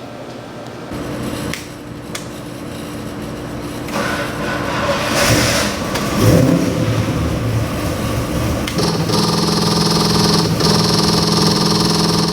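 Small-block Chrysler V8 (a 360 Magnum-based 408 cubic-inch stroker) starting up and running. The sound builds from about a second in, swells loudly near six seconds, and settles into a steady, higher engine note from about nine seconds.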